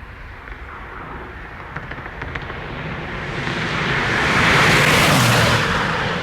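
A Kia Stinger GT1 with its twin-turbo V6 approaching and passing by at speed: a rush of engine, tyre and wind noise that grows steadily louder, peaks about five seconds in, then begins to fade.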